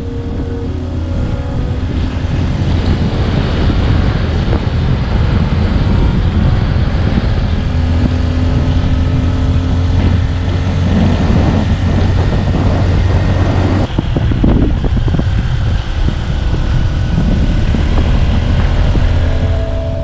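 Motorbike engine running steadily while riding, mixed with wind buffeting the microphone.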